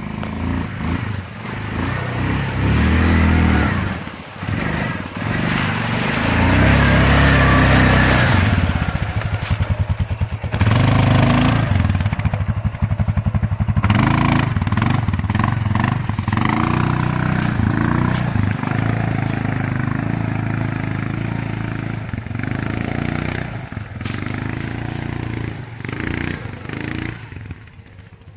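Quad bike (ATV) engine revving unevenly, its revs rising and falling again and again, as it is driven through deep mud.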